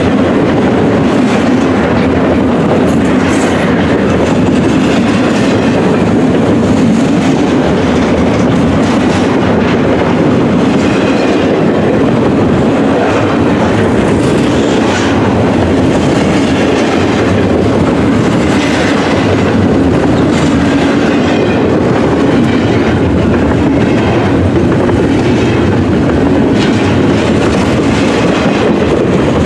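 Double-stack intermodal container cars of a freight train rolling past close by: a loud, steady run of steel wheels on rail with a clickety-clack of wheels over rail joints.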